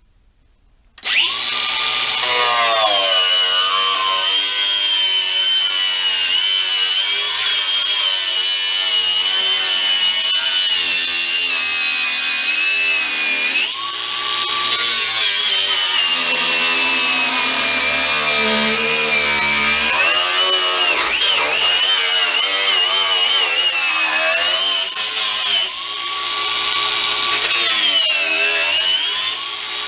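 DeWalt DCG412 cordless angle grinder cutting through thin sheet-steel wheel-arch lip. It starts about a second in, and its high whine sags and wavers in pitch as it is pushed into the metal, easing off briefly a few times.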